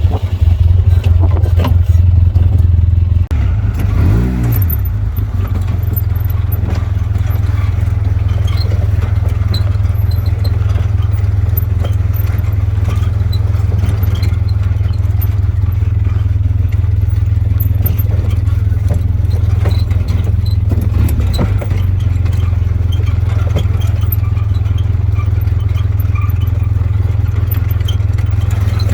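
Side-by-side UTV engine running steadily as it drives an off-road trail, with rattling and clatter from the machine over rough ground. The engine note rises and falls briefly about four seconds in.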